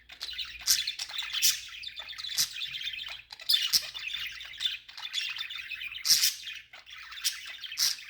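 Pet budgerigars chattering in a continuous warble, broken by several sharp, loud chirps.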